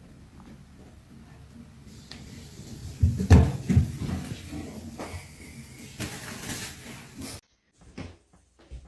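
Knocks and thuds over room noise, the loudest a couple of low thumps about three seconds in. The sound cuts off suddenly near the end, and a few light clicks follow.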